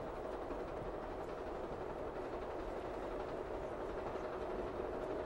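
Steady rumble of a moving passenger train, heard from inside the carriage.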